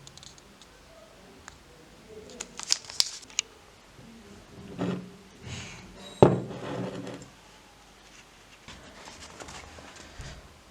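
Objects being handled on a surface: a quick run of sharp clicks, some rustling, and one sharp knock about six seconds in.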